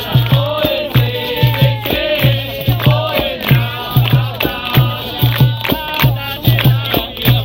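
Live capoeira roda music: a low drum, played as an atabaque, beating steadily about three to four strokes a second under berimbau, pandeiro jingles and rattle, with group singing.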